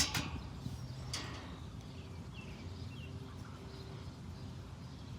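Chickens clucking, two short sharp clucks in the first second or so, then only a low rumble with a few faint chirps.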